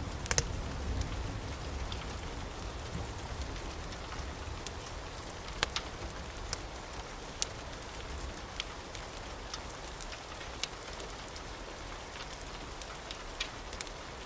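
Steady rain with scattered sharp crackles and pops from a wood fire. A low rumble fades away over the first couple of seconds.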